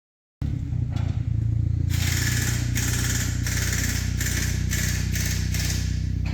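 Car engine running steadily at low revs, cutting in suddenly just after the start, with a hiss pulsing about twice a second from about two seconds in.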